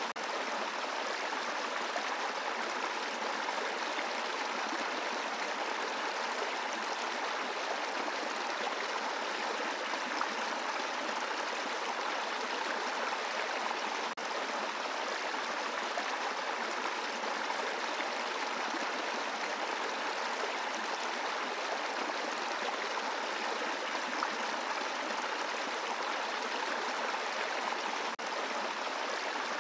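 Brook flowing over a bed of rocks: a steady rush of running water. The level stays even, with a brief dip about halfway through and another near the end.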